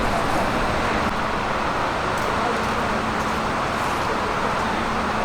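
Steady engine and road noise of a car cruising at constant speed, with a low even engine drone and no revving.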